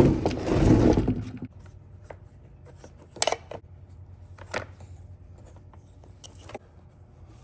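A loud rasping scrape of metal lasting about a second, then three separate sharp clinks of metal tools being handled.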